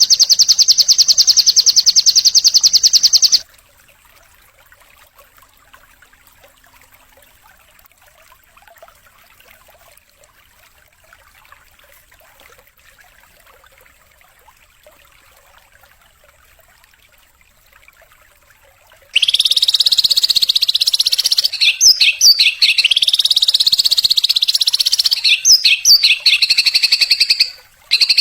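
Songbird song: a loud, fast, buzzing trill for about three seconds, then a long stretch of faint hiss, then another loud run of rapid trilling with sweeping notes and sharp chips, briefly broken near the end.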